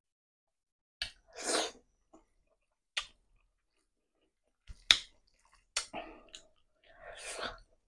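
Close-up eating sounds of a person chewing a rice meal: a few sharp mouth clicks and lip smacks, with short wet chewing noises between quiet gaps.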